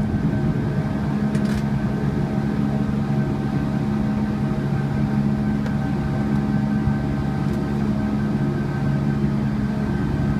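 Boeing 757 engines running, heard from inside the passenger cabin: a steady hum of several even tones over a low rumble, with a light click about a second and a half in.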